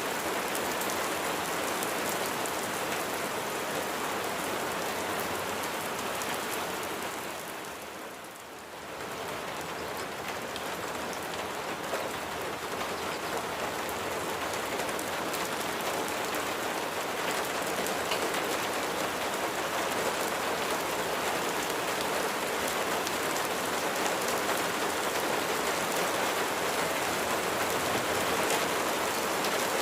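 Steady rain falling, a dense even hiss of drops, which fades briefly and comes back about eight seconds in.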